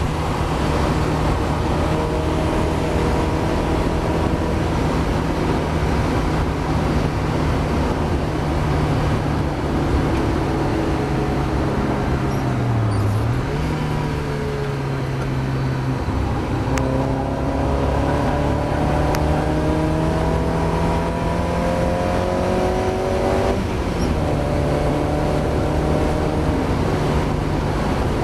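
Mazda MX-5 race car's four-cylinder engine running hard under a haze of road and wind noise. The engine note dips briefly about halfway through, then climbs steadily as the car accelerates and drops sharply at a gear change near the end. The engine is struggling with a misfire.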